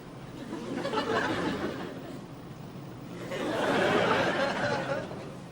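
Studio audience laughing in two swells, the second louder and longer.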